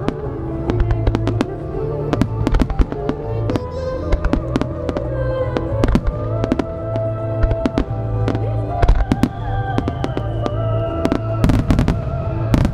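Starmine fireworks: a quick, irregular string of shell bursts and launch bangs, several a second, with a cluster of the loudest reports near the end, over music accompanying the display.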